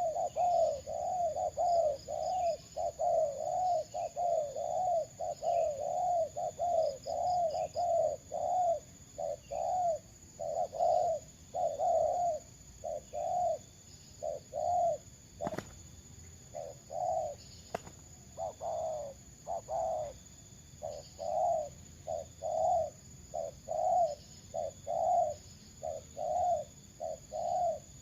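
A dove-like bird cooing in a long run of short, low, arched notes, about two a second, with a few pauses in the second half. Faint higher chirps from other birds sound behind it, and two sharp clicks come about halfway through.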